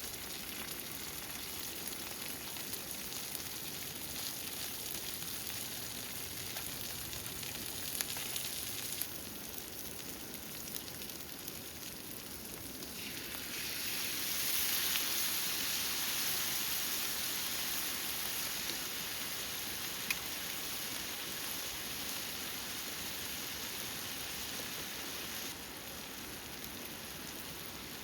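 Food sizzling in a hot pan over steady rain. The sizzle grows louder a little before halfway through, stays up for about twelve seconds, then drops back suddenly.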